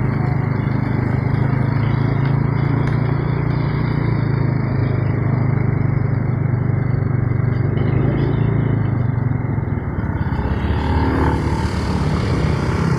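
Diesel engine of road-paving machinery running steadily with a deep drone; the sound changes about ten seconds in.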